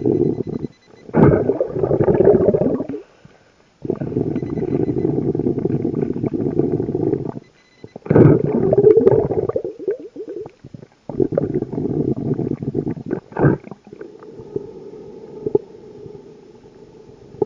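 Scuba diver breathing through a regulator underwater: a steady hiss on each inhalation alternating with bubbling, gurgling exhalations, about three breaths, quieter in the last few seconds.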